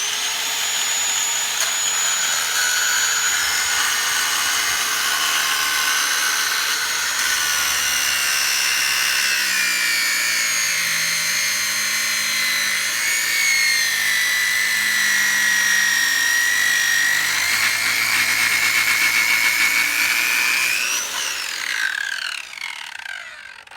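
Circular saw with a 7-inch masonry cutoff wheel running at full speed and cutting through Orangeburg pipe, made of tar-impregnated fibre, with a high steady whine whose pitch sags and wavers as the wheel bites. Near the end it is switched off and the whine falls in pitch as the wheel spins down.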